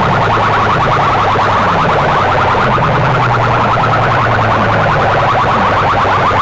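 A rapid, repeating electronic alarm-like warble blasted through sound-system speaker boxes, over a steady low hum.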